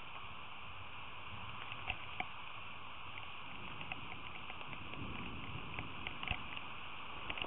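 Steady rain falling: a constant hiss with scattered drops ticking close to the microphone, two sharper drip clicks about two seconds in.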